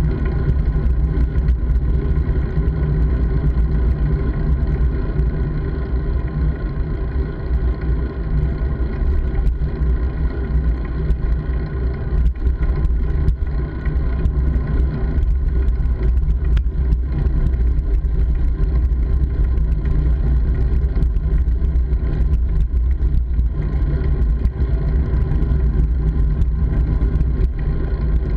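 Steady, loud riding noise of a moving bike picked up by a camera carried on the ride: a constant low rumble of wind and road that does not let up.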